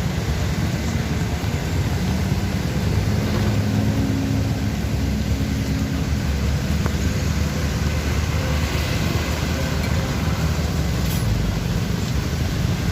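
Bus engine running with a steady low rumble, its pitch rising briefly a couple of seconds in.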